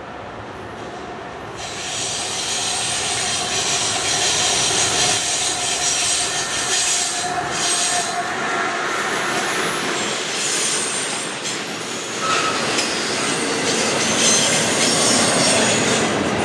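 CN freight train led by GE ET44AC and C40-8W diesel-electric locomotives passes close by. It grows louder about two seconds in as the locomotives arrive, then double-stack container cars roll past with wheel squeal and clicking over the rails.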